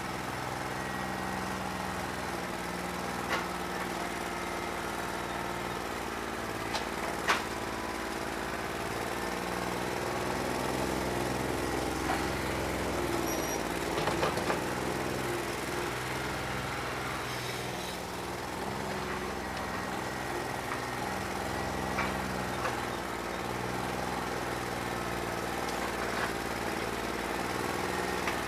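New Holland 1320 compact tractor's diesel engine running at a steady speed, with a few sharp knocks, the loudest about seven seconds in. The engine has a bad injector.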